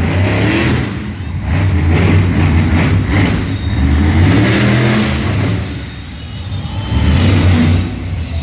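Monster truck engine revving hard over and over, its pitch climbing and falling, easing off briefly about a second in and again around six seconds in.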